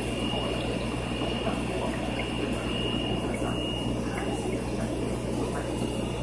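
Aquarium filtration running: steady water trickling and bubbling over a low pump hum, with a thin steady high tone.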